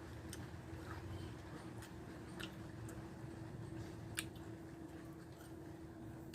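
A person chewing food with wet mouth sounds and a handful of sharp clicks, over a faint steady hum.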